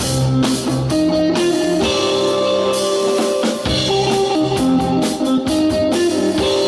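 Live rock band playing a song intro: electric guitar and bass over a drum kit with a steady beat.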